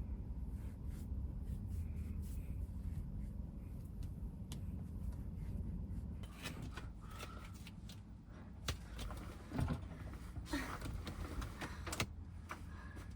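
Scattered knocks, clicks and clatter of things being handled and shut, loudest about two thirds of the way through, over a steady low rumble.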